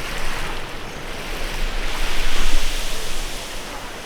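Waves washing onto the shore of a bay, a steady rush that swells to a peak a little past halfway through and then eases off.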